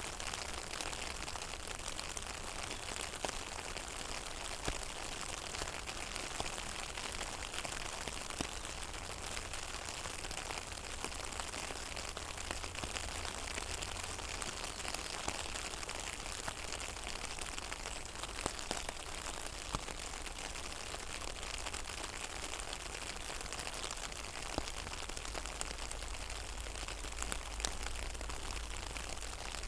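Steady rain falling on a pond's surface, a dense patter of many small drops with a faint low rumble underneath.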